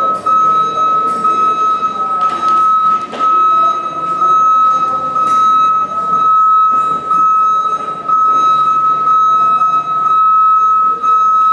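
A steady, high-pitched buzzer-like tone, held without a break, over clattering mechanical noise with scattered knocks.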